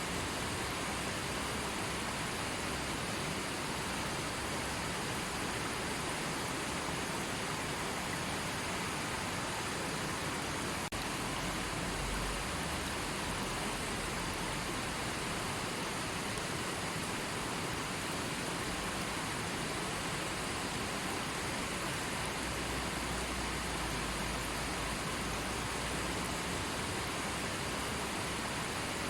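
River water rushing steadily, a continuous even hiss of flowing water.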